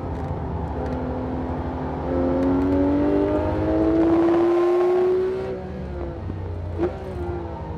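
Porsche 991 GT3's naturally aspirated flat-six heard from inside the cabin on track. It runs steadily, then about two seconds in pulls hard under full throttle with the pitch climbing. About five and a half seconds in the driver lifts off and the engine turns quieter, and a brief sharp snap follows about a second and a half later.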